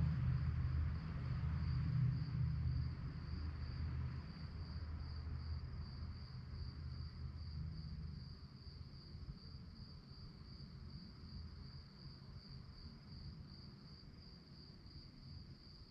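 Crickets chirping in a steady, rapidly pulsing high-pitched trill. A low droning rumble is loudest at the start and fades away over the first half, leaving the crickets alone.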